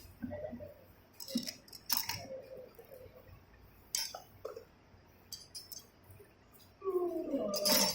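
Metal tools and motorcycle engine parts clinking and knocking together: several separate clinks, then a longer run of metal rattling and scraping near the end.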